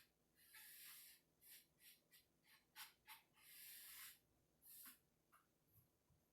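Damp cloth wiping sanding dust off bare cedar wood: a run of soft, faint rubbing strokes, some short and quick, some longer sweeps, tapering off near the end.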